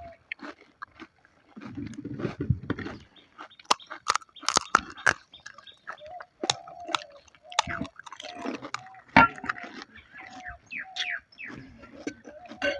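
Someone eating panipuri: the crisp puri shells crunch and are chewed in a string of sharp clicks and crackles. Short, repeated mid-pitched calls sound in the background.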